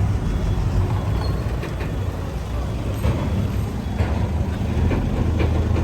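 Steady, loud low engine rumble, with a few faint knocks over it.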